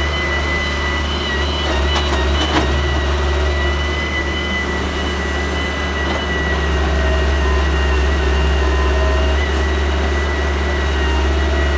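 Heavy diesel engine running steadily, with a low hum and a faint steady high whine above it.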